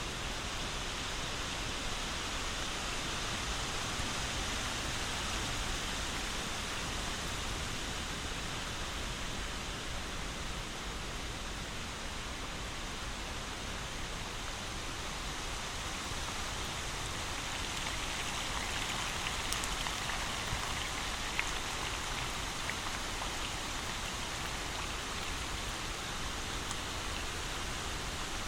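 Steady rain falling, a continuous even hiss with a few faint drop ticks.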